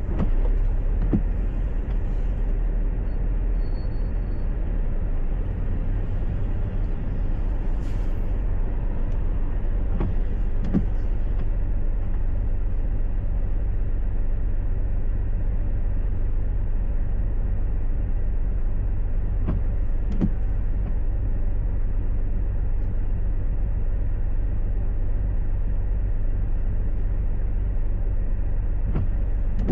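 Steady low rumble of a car driving, with engine and road noise heard from inside the cabin, and a few faint knocks spread through it.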